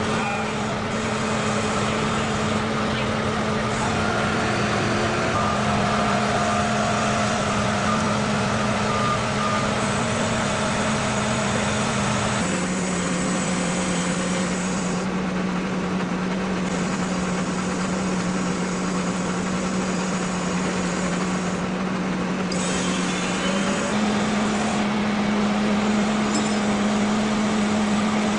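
Heavy truck engine running steadily under a noisy rumble, its pitch stepping down about twelve seconds in and back up near the end.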